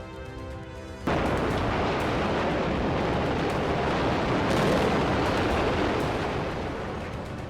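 A sudden loud roar of noise cuts in over the music about a second in, lasting about six seconds and easing off near the end.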